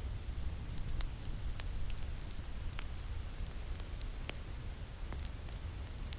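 Crackling fire, irregular sharp pops and snaps several times a second, over a steady low rumble of winter wind.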